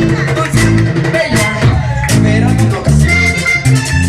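Live vallenato band playing an instrumental passage: accordion melody over a steady bass line, with a rhythmic percussion beat.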